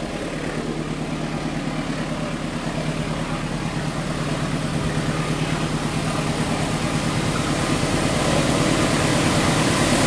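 Diesel locomotive engine of an approaching train running with a steady drone, growing steadily louder as it nears.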